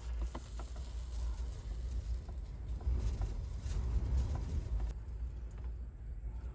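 Strong wind buffeting the car, a steady low rumble, with scattered light ticks and crackles over it.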